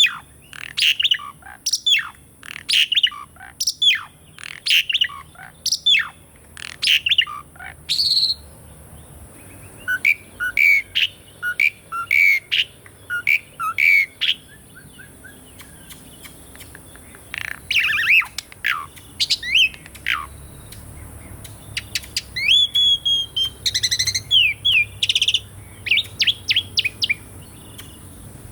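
Asian pied starling (jalak suren) singing: quick runs of sharp chattering calls and whistles, broken by short pauses, with a few clear whistled notes near the end.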